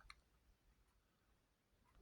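Near silence: faint room tone with a small click just after the start.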